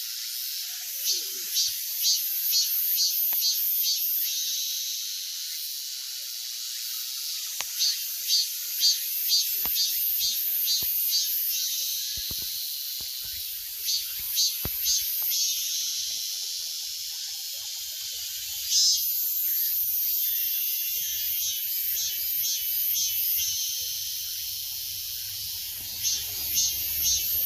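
Cicadas singing in repeated pulsing phrases, quick strokes of about three to four a second that swell and stop every few seconds, over a steady rushing of a mountain valley stream.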